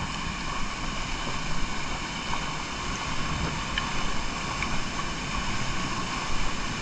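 Waterfall and fast-flowing creek water rushing, a steady noise with no break.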